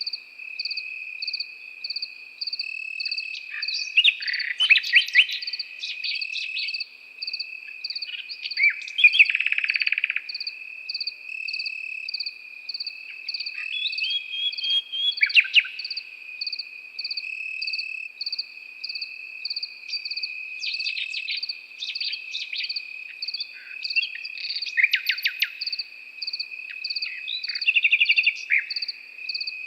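Common nightingale singing short, varied phrases of rapid repeated notes and buzzy trills, separated by pauses. Underneath, crickets keep up a steady high trill and a pulsing chirp about twice a second.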